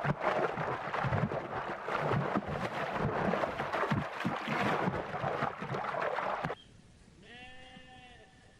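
Outdoor noise with scattered rustling and knocks, which cuts off suddenly; near the end a sheep gives one short bleat.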